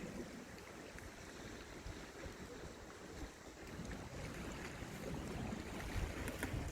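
Wind buffeting the microphone over the wash of sea water, the low rumble of the wind growing stronger over the last couple of seconds.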